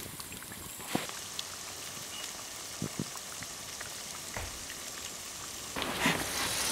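Food sizzling and frying in oil in a pan over a campfire, a steady hiss broken by scattered sharp pops. It gets louder near the end.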